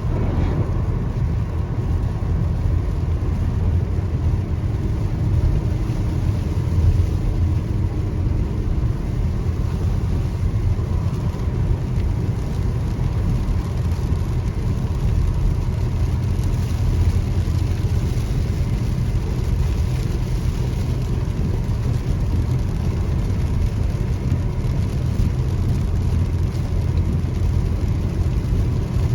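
Steady low road and engine noise of a car being driven, an even rumble with no separate events.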